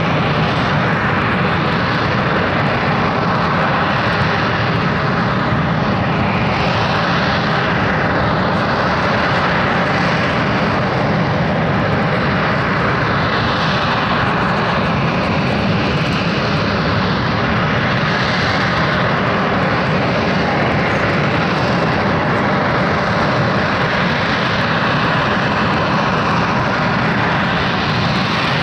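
Harrier jump jet's turbofan engine running loud and steady while it hovers, a continuous rushing roar whose upper hiss slowly swells and shifts.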